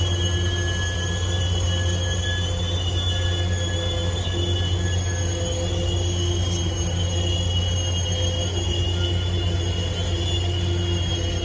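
Freight train's steel wheels squealing against the rail, a steady high-pitched squeal held throughout over a steady low drone of the train.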